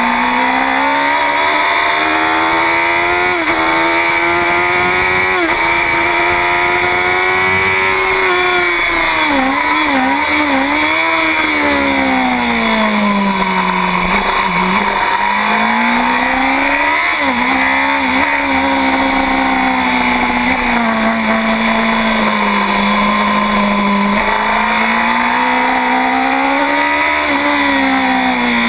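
2009 Honda CBR1000RR superbike's inline-four engine at racing revs: its pitch climbs with brief dips at quick upshifts in the first few seconds, falls through a run of downshifts around ten seconds in and again around seventeen seconds, then climbs and falls once more near the end. A steady wind rush runs under it.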